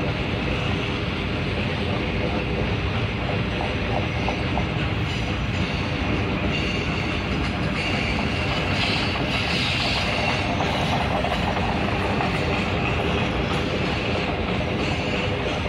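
Norfolk Southern Triple Crown RoadRailer train rolling past, highway trailers riding on rail bogies, with a steady rumble and clatter of steel wheels on the rails. A high wheel squeal comes in about halfway through.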